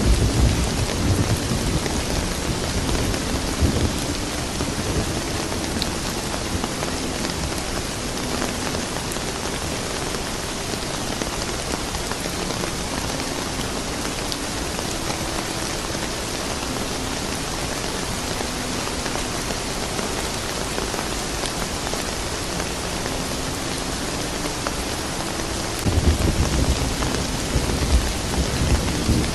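Steady rain pattering. Low thunder rumbles through the first few seconds and rolls in again, louder, near the end.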